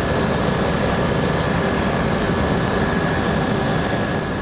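Helicopter in flight: steady, loud engine and rotor noise with a thin high whine, starting to fade out near the end.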